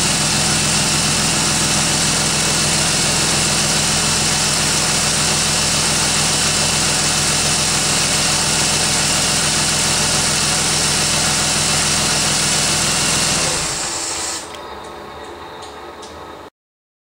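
Ford Falcon BF MkII XR6 Turbo's 4.0-litre turbocharged straight-six idling steadily, with the Bosch 044 external fuel pump's loud high-pitched whir over it. The engine stops about thirteen seconds in, and the pump's whir stops about a second later.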